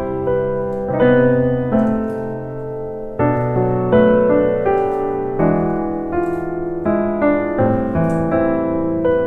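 Background piano music: a gentle melody over chords, with notes struck about every half second and left to ring.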